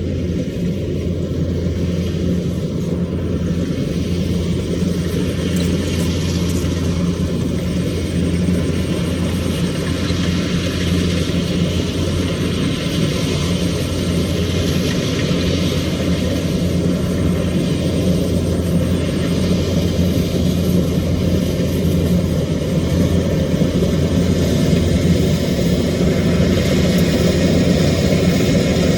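Rice combine harvester running steadily, a continuous low engine hum with machinery noise, slowly growing a little louder.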